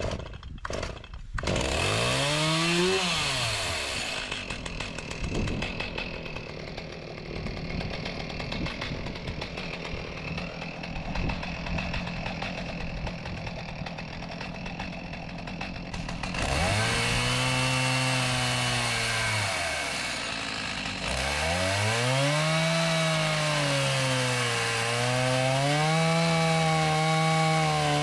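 Chainsaw on a chainsaw mill ripping lengthwise through a large log with a skip-tooth ripping chain. It revs up once early on and runs lower and rougher for about twelve seconds. From about sixteen seconds in it runs at full throttle in the cut, with a brief drop near twenty seconds, its pitch sagging and recovering under the load.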